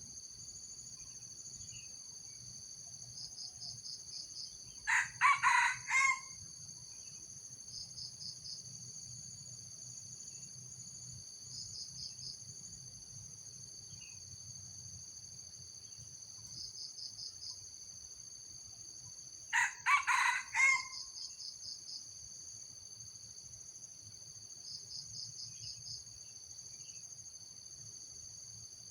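Red junglefowl crowing twice, each a short, broken crow of about a second, some fifteen seconds apart. Steady high insect drone throughout, with short pulsed trills every few seconds.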